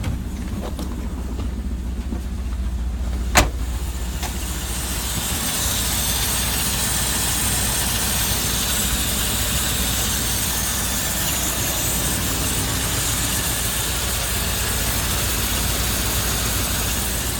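1984 Chevrolet pickup's 5-liter V8 idling steadily, with one sharp bang about three seconds in. From about five seconds on the engine is louder and hissier.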